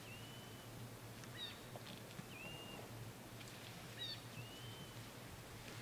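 Wild birds calling: three drawn-out whistled notes about two seconds apart, each dipping and then levelling off, with short stepped chirps in between. A faint steady low hum and a few faint crackles sit underneath.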